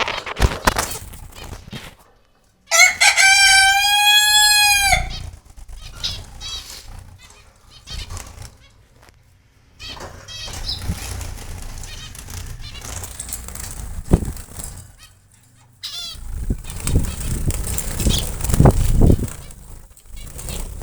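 Zebra finches chirping with short high calls, with wing flutters. About three seconds in comes one loud drawn-out call lasting about two seconds, rising and then falling in pitch, from a larger bird.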